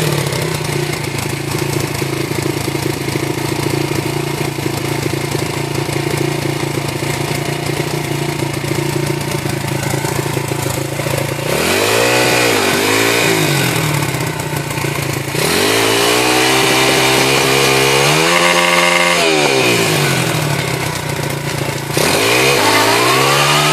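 Pit bike engine idling steadily, then revved from about halfway through: a few quick blips, a longer rev held high and let fall, and another rev-up near the end.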